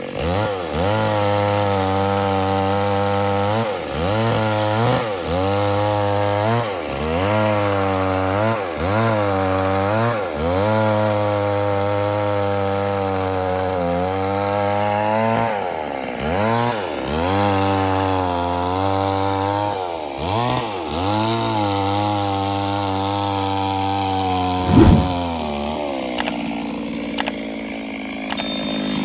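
Two-stroke chainsaw cutting through wood at high revs, the engine pitch dipping as the chain bites into the cut and climbing back, over and over every second or two. A brief sharp crack stands out near the end.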